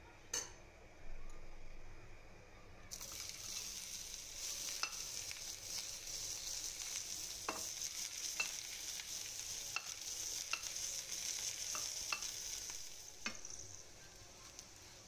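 Bitter gourd slices sizzling in hot oil in a frying pan. The steady sizzle starts suddenly about three seconds in, as the slices go into the oil, and dies down a little near the end. A steel slotted spoon clinks and scrapes against the pan about once a second as they are stirred.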